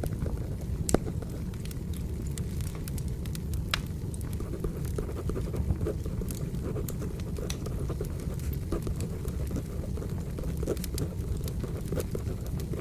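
Wood fire crackling, with a steady low rumble of flames under scattered sharp pops and two louder snaps, about one second and about four seconds in. Pencil scratching on paper is mixed in.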